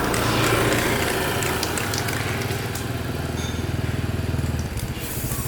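A small engine running steadily, its low note dropping away near the end.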